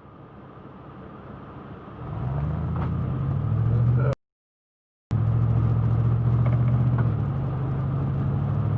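A car engine running while driving, a low steady hum that fades in and grows louder about two seconds in. The sound cuts out completely for about a second around four seconds in, then the engine hum comes back and its pitch drops slightly about seven seconds in.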